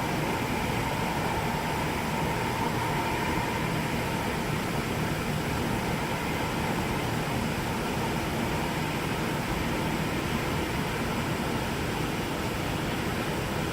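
Steady hiss and low rumble of jet airliners taxiing, heard from inside the terminal building, with a faint whine in the first few seconds.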